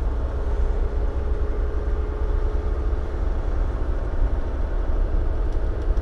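Dump truck's diesel engine running steadily, heard from inside the cab: an even, deep rumble with a faint steady hum above it.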